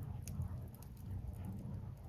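Firewood burning with a few sharp crackling pops over a low, steady rumble.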